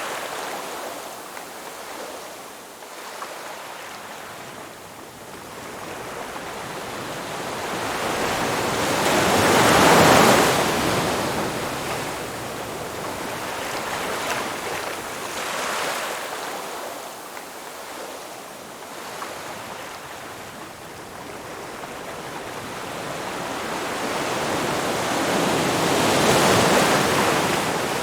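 Ocean surf washing on a beach: waves build slowly and break, loudest about ten seconds in and again near the end, with a smaller wave in between.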